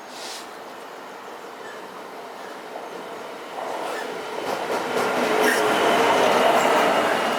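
A train approaching on the track, its running noise growing louder from about halfway in and peaking near the end.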